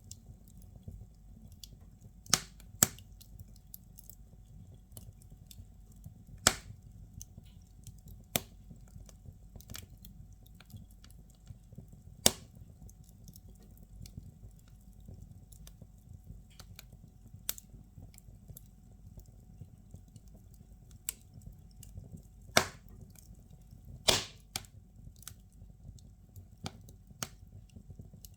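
Firewood burning in a fireplace, crackling with irregular sharp pops over a low steady rumble of the fire. Half a dozen louder snaps stand out from the lighter crackle.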